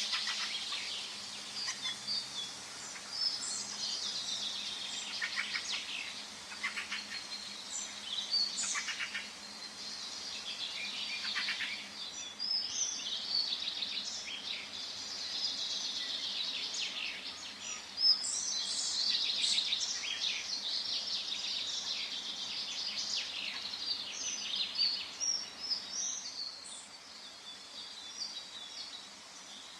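Several songbirds calling and singing at once in a forest, a dense chorus of chirps and trills over a faint steady background hiss.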